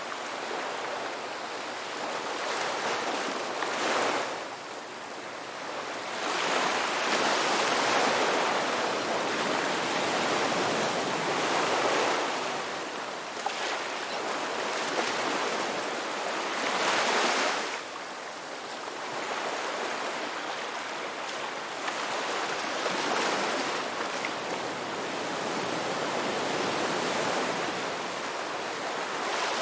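Sea waves breaking and washing on a shore, a continuous rushing wash that swells and eases every few seconds.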